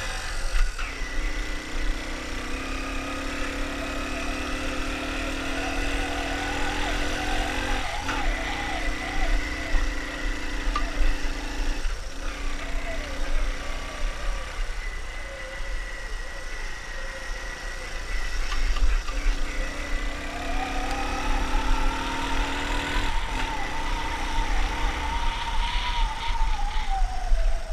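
Motorcycle engine running under steady throttle, with a few brief drops in revs, and the revs climbing again late on. Wind rumbles on the microphone underneath.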